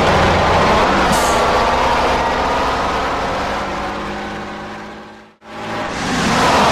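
Heavy truck engine running steadily, with a short air-brake hiss about a second in. The engine fades out to silence a little after five seconds and fades back in near the end, like an edited truck sound track.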